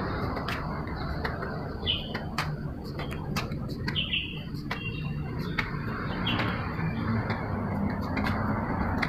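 A bird chirping in short single calls, three of them about two seconds apart, over a steady low outdoor rumble with scattered faint clicks.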